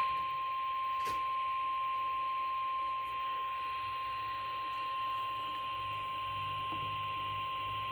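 NOAA Weather Radio 1050 Hz warning alarm tone: a single steady high tone, heard through a radio receiver with a faint hiss under it. The tone signals that a weather warning, here a severe thunderstorm warning, is about to be read.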